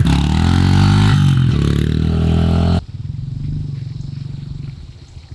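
Small pit bike engine revving hard close by, its pitch climbing as it pulls away. About three seconds in it drops suddenly to a quieter, steadier engine note.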